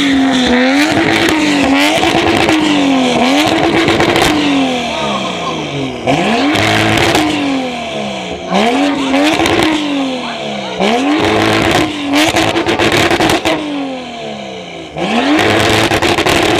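High-performance car engine revved hard and repeatedly: each blip shoots up in pitch and then falls back as the revs drop, about a dozen times, some in quick succession and some with longer gaps.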